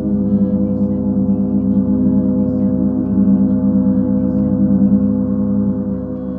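Gong played as a continuous wash of sustained, shimmering tones, with its low hum strongest. It swells a little in the middle and eases off near the end.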